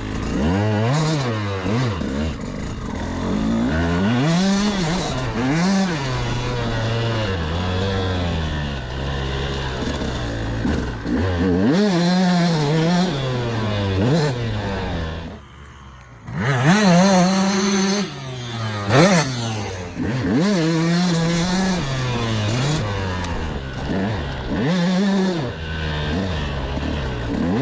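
KTM 200SX two-stroke motocross engine being ridden, its revs rising and falling over and over through the throttle and gear changes. About halfway through, the engine goes briefly quiet as the throttle is shut off. It then revs hard again.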